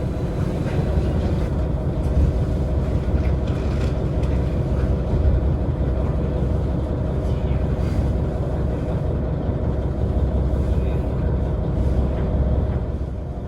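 Diesel railcar engine running steadily: a low, even rumble with a constant hum, and a few faint clicks over it.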